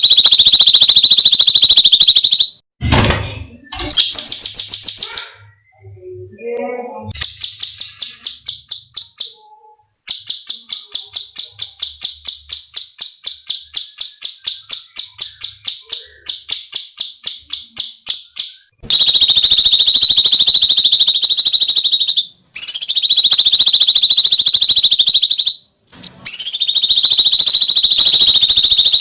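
Cucak cungkok songbird calling loudly in long, harsh, high-pitched screeches lasting a few seconds each. In the middle these give way to fast runs of short repeated notes, several a second, before the screeching resumes.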